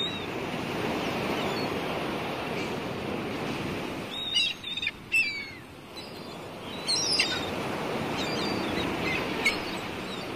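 Sea waves washing steadily on the shore, with bird calls: short, sharp chirps and falling squeals, clustered about four to seven seconds in and again near the end.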